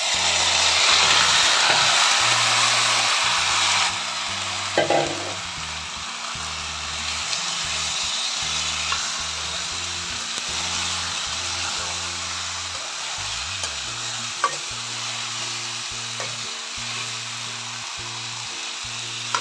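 Marinated chicken pieces dropped into hot oil and fried onions in a kadai, sizzling loudly at first. After about four seconds the sizzle settles into a steady frying sound. Throughout, the chicken is stirred with a spatula that scrapes and now and then knocks against the pan.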